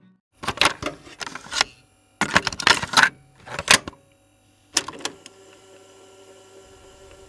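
Rapid clicking and clattering in three short bursts, then a single click and a brief fourth burst about five seconds in, followed by faint steady hiss.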